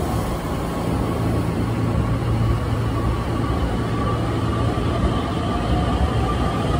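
Steady low hum and rumble of an electric train at a railway platform, with a faint whine that climbs slightly in pitch in the second half.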